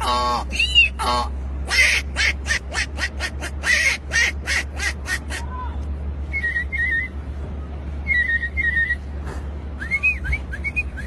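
A man imitating bird calls with his mouth. Arching cat-like calls open it, then comes a fast run of sharp chirps, then warbling trills and looping whistles near the end.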